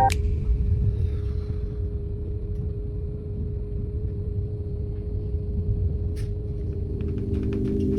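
Steady low rumble of a moving train heard from inside the carriage, with a constant faint hum over it and a few light ticks near the end.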